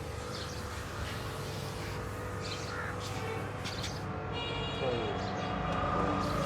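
Small birds chirping, short high calls every second or so, over a steady background hum.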